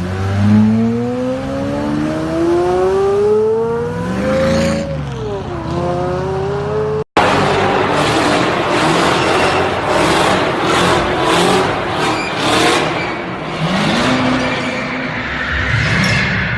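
Car engine revving, its pitch climbing steadily, dipping about five seconds in and climbing again. After an abrupt cut it switches to loud tyre squeal and engine noise from a drifting car, with a run of sharp cracks in the middle.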